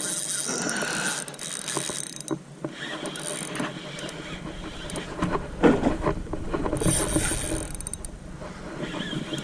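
Fishing gear on a kayak clicking and rattling irregularly, with sharp ticks scattered through.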